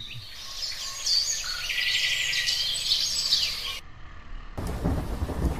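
A flock of small birds chirping, many short high calls overlapping, which cut off abruptly near four seconds in. About a second later a loud low rumble of road and wind noise takes over.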